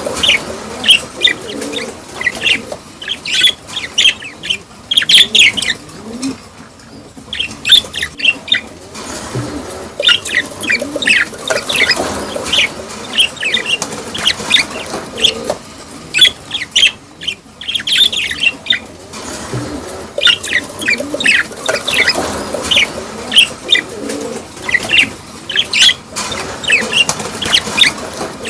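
A flock of budgerigars in breeding season chattering and chirping, a dense stream of short, sharp chirps with brief lulls.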